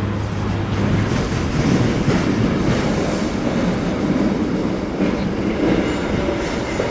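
A train running close by on the rails, its wheels making a loud, dense rumble, with a low steady hum that stops about a second in.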